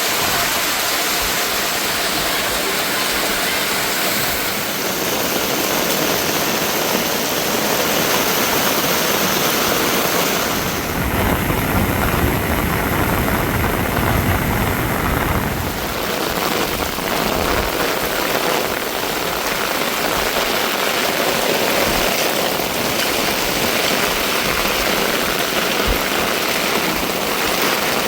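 Steady rushing of water, an even noise with no pitch, with a deeper, heavier stretch from about 11 to 16 seconds in.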